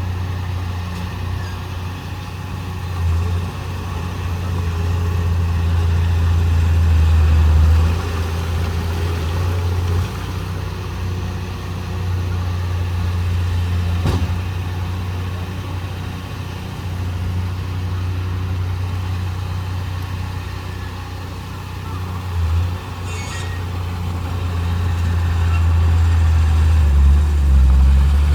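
Heavy diesel engine of earthmoving machinery running with a deep drone, swelling louder twice as it works, with one sharp knock about halfway through.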